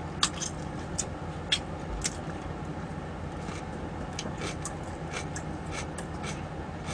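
Scattered small clicks and smacks over a steady low background hum. The two sharpest come about a quarter second and a second and a half in, and a quicker run of them comes later on.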